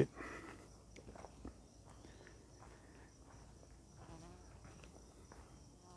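Faint, steady chirring of insects, with a few soft footsteps.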